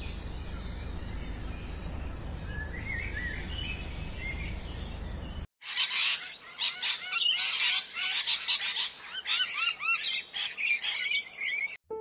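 A steady low outdoor rumble with a few faint bird chirps. After a sudden cut about five and a half seconds in, loud, busy bird calls: many quick rising chirps mixed with harsher calls.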